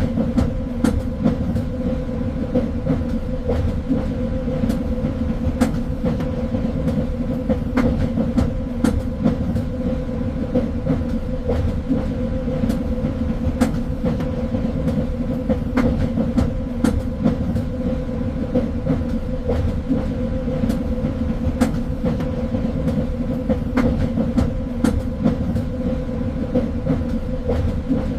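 Train running along the track: a steady low rumble with a constant hum, and frequent irregular clicks and knocks from the wheels and carriage.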